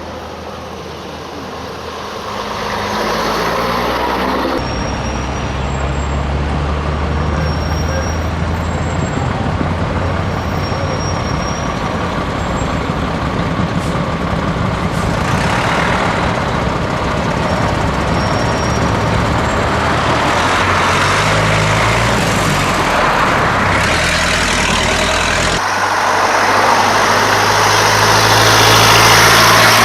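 Classic Scania truck's diesel engine running under way, its note shifting in steps a few times.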